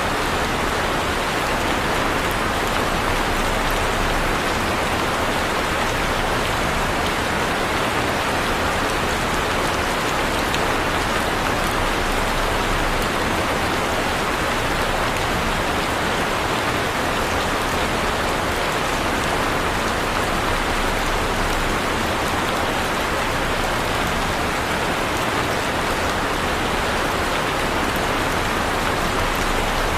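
Heavy rain falling steadily, a dense even hiss of rain on surfaces with no thunder or breaks.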